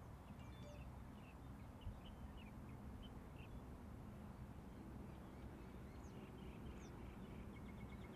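Faint, scattered chirps of small birds over a steady low rumble of wind on the microphone. Near the end a fast run of faint, high, evenly spaced beeps begins.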